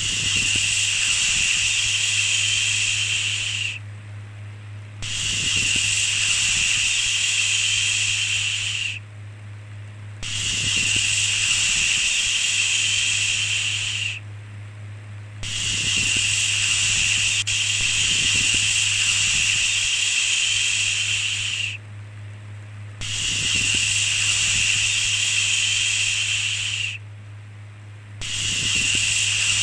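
A repeated 'shhh' shushing sound: long hissing strokes of about four to six seconds each, with roughly a second's pause between them. A steady low hum runs underneath.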